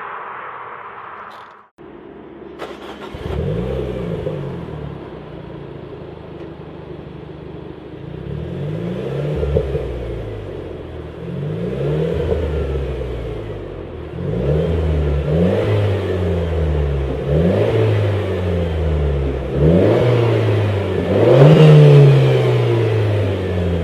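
Renaultsport Clio 200 EDC's 1.6-litre turbocharged four-cylinder through a Supersprint aftermarket exhaust, revved again and again. The pitch climbs and drops in repeated swells that grow louder toward the end, after a brief break near the start.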